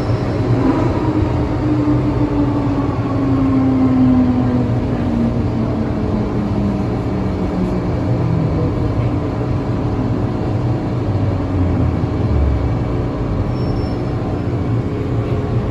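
MTR M-train car braking: its strong braking howl falls steadily in pitch over about twelve seconds, over the rumble of the train running.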